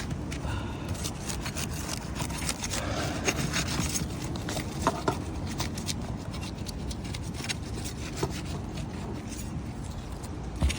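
Metal shingle-removal tool scraping and prying under old, brittle asphalt three-tab shingles: gritty rubbing and rasping with many small clicks and a few sharper snaps as the shingle and its nails are worked loose.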